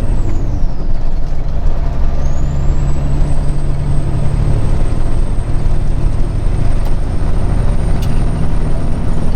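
Semi truck's diesel engine running steadily under road noise, heard from inside the cab while cruising. A faint high whine fades out about half a second in and comes back about two seconds in.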